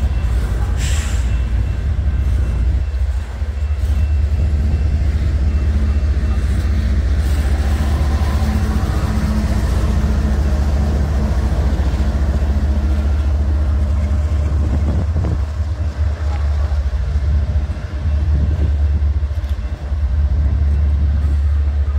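A train going by, with a steady, heavy low rumble.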